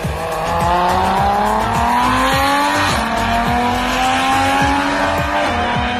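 Big-turbo BMW engine accelerating hard from a drag-strip launch. Its pitch climbs steadily and drops back at two upshifts, about three seconds in and near the end.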